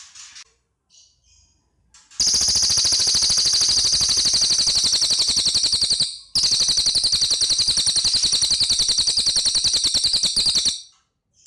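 Cililin bird singing: a few short faint chirps, then a loud, very fast rattling trill starting about two seconds in. The trill breaks off briefly about halfway, resumes, and stops about a second before the end.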